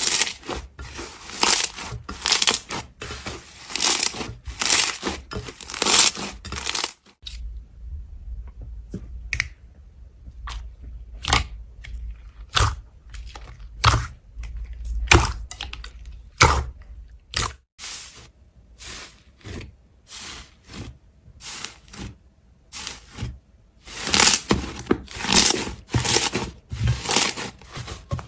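Slime being squeezed, poked and pulled apart by hand: irregular crunchy crackles and pops, coming thick and fast at first and again near the end, sparser in the middle.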